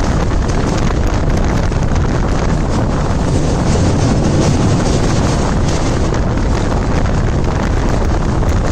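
Wind buffeting the microphone over the steady rumble of a passenger train running across a steel truss bridge, heard from the open coach doorway.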